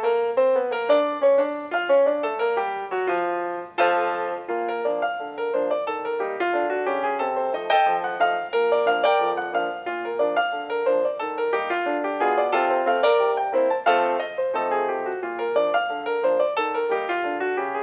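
Background piano music: a continuous run of quick notes with chords underneath.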